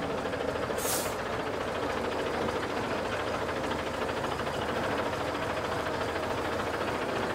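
Scania truck engine running steadily, with a short hiss of air about a second in.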